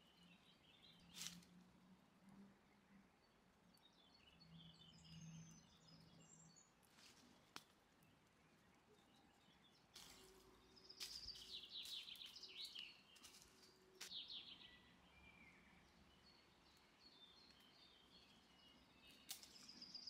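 Near silence with faint songbird chirps, busiest about halfway through, and a few soft clicks.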